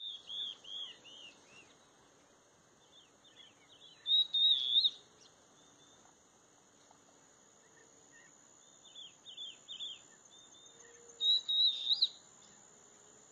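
Birds singing: runs of short chirping notes, with two louder song phrases about four and eleven seconds in, over a steady high-pitched whine.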